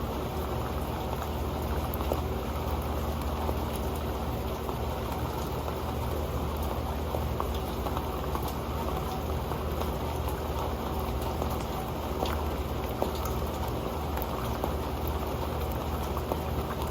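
Rain pattering steadily on an old metal pan: a dense, even stream of small drop ticks.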